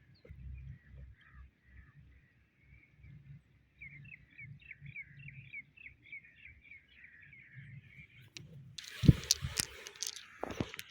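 Small birds chirping, with a quick run of about five chirps a second in the middle. Soft low thuds run underneath. Near the end a loud burst of rustling and sharp knocks covers everything.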